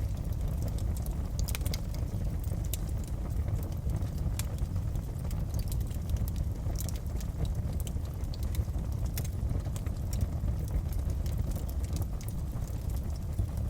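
Wood fire crackling in a fireplace: scattered sharp pops and snaps, several a second at irregular intervals, over a steady low rumble.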